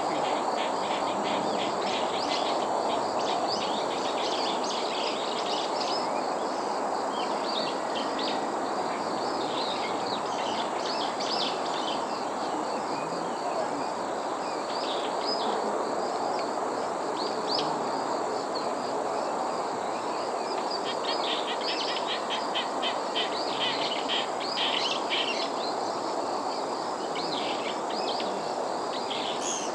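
Small wild birds calling with short, high chirps over a steady background hiss, with a quick run of chirps about three-quarters of the way through.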